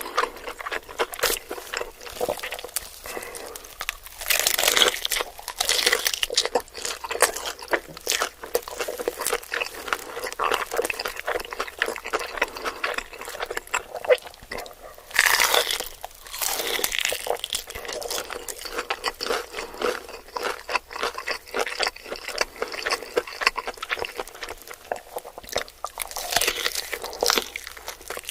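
A person chewing and biting into spicy chicken close to the microphone: continuous crunching and mouth clicks, with louder bites about four seconds in and again about fifteen seconds in.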